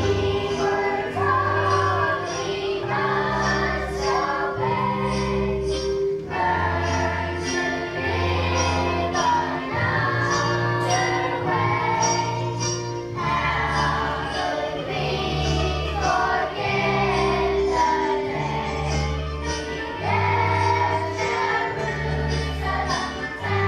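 Children's choir singing a song with a recorded accompaniment: a steady bass line and a regular percussion beat under the voices.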